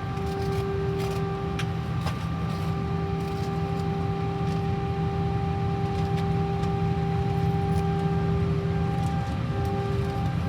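Airbus A319 jet engines heard inside the passenger cabin: a steady drone with a held whine of several steady tones, and a few faint light rattles.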